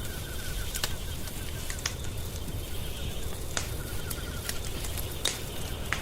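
Wood fire crackling: sharp pops and snaps about once a second over a low steady rumble. A faint rapid trill runs under it for a while near the end.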